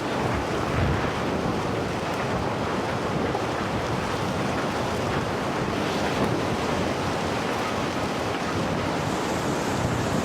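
Steady, unbroken rush of fast-flowing water, an even noise with no distinct splashes or knocks.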